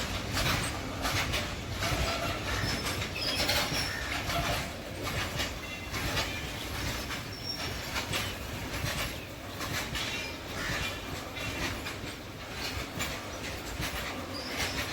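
Train rolling past, steel wheels clattering over the rails with a steady rumble and a few brief high wheel squeals.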